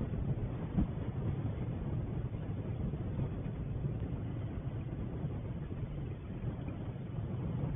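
Wind buffeting an outdoor camera's microphone: a steady low rumble with a couple of louder gusts about a second in.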